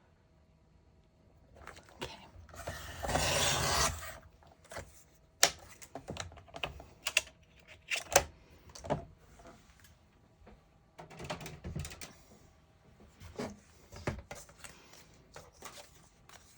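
Cardstock being worked with paper-crafting tools: one rasping, sliding stroke lasting about a second, about three seconds in, then a long run of sharp clicks and taps with light rustling between them as the paper and tools are handled.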